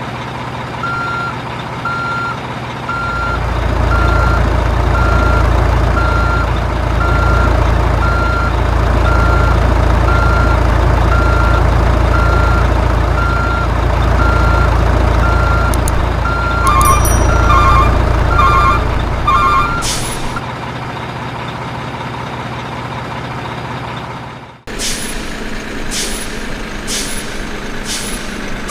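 Heavy truck engine running with a reversing alarm beeping about once a second. Near the end of the beeping, a second double-toned beep joins in. After a sudden cut near the end, a lighter engine hum follows with sharp clicks about once a second.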